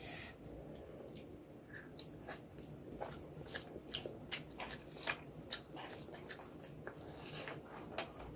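A person chewing mouthfuls of rice and egg curry eaten by hand, with sharp wet mouth clicks at irregular intervals.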